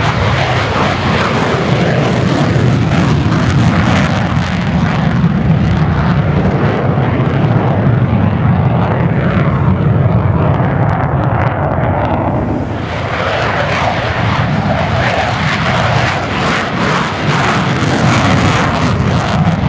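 Loud, continuous jet noise of Mitsubishi F-2A fighters flying by, powered by F110 turbofan engines; the high hiss thins about halfway through and builds again toward the end.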